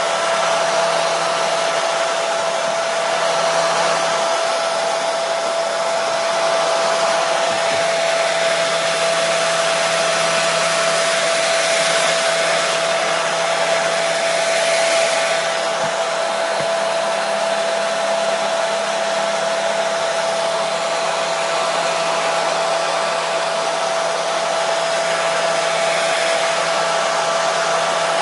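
Hair dryer running continuously: a steady airy rush with a constant whine from its motor and fan, unchanging in pitch and level.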